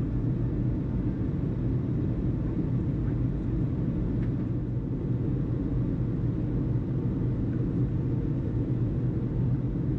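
Steady low rumble with a faint hiss above it, unchanging throughout, in a pause between air traffic control radio transmissions.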